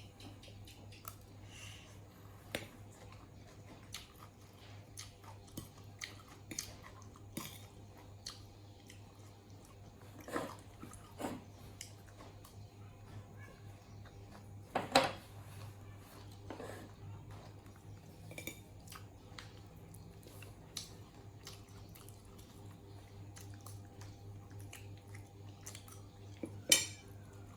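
Monkeys eating: chewing and scattered small clicks and clinks of dishes over a steady low hum, with a sharper knock about halfway through and another near the end.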